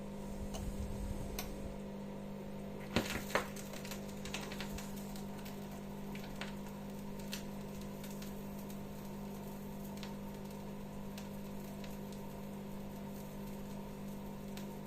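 Slight steady mains hum from a phono preamp playing through the speakers, with two sharp clicks about three seconds in and scattered faint ticks.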